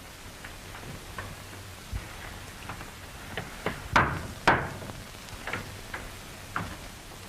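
Scattered light knocks and clicks over the steady hiss of an old film soundtrack, with two louder thuds about four seconds in, half a second apart.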